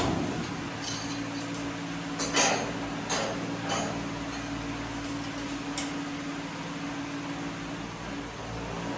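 Hand tools clinking and clicking against steel front-suspension parts a few times, the loudest about two and a half seconds in, while the ball joints are being tightened. A steady low hum runs underneath.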